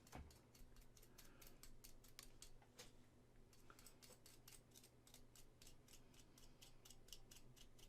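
Near silence, with faint light clicks coming irregularly, several a second, as small tools work on a resin model.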